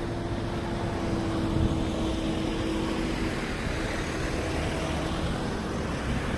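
Motor vehicle running, with a steady hum that fades out about three seconds in, over a steady noisy background.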